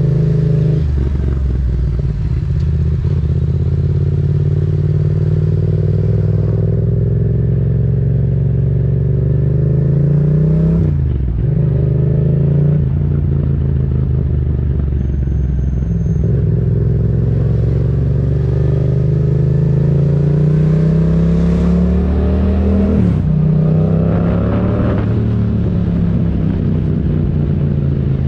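Yamaha MT-07's parallel-twin engine through an aftermarket Mivv exhaust with the dB killer removed, riding under load. Its pitch climbs steadily for several seconds at a time and drops sharply at a few points, such as gear changes or throttle lifts, about ten seconds in and again around twenty-two and twenty-five seconds.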